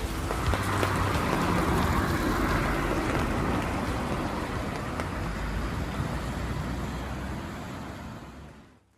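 Traffic on a wet city street: tyres hissing past on the rain-soaked road, swelling over the first few seconds and then easing, before the sound fades out near the end.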